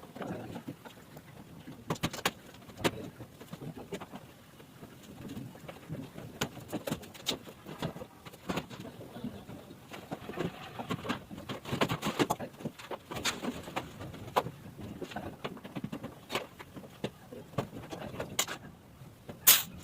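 Irregular clicks, knocks and clatter, as of hand work with tools and parts, with a sharper, louder click near the end.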